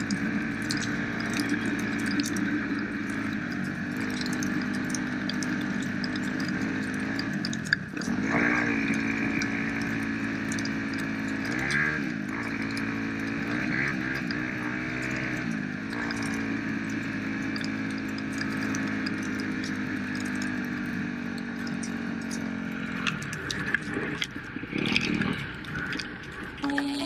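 Dirt bike engine running, its pitch rising and falling several times as the throttle is worked between about eight and sixteen seconds in, then settling back to a steady note.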